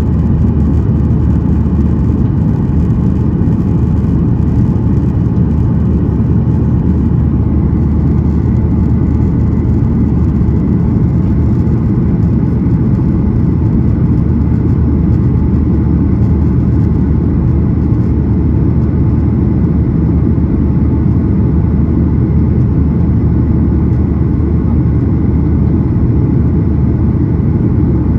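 Steady engine and airflow noise heard inside the cabin of a Boeing 737-800 with CFM56-7B turbofans. It is a loud, even rumble with a low hum and no change in pitch or level.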